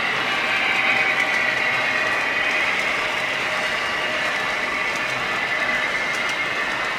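HO scale model train running along the track: a steady whirr with faint clicks from the wheels.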